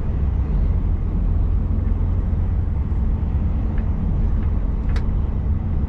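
Steady low rumble of a truck running on the road, with a single sharp click about five seconds in.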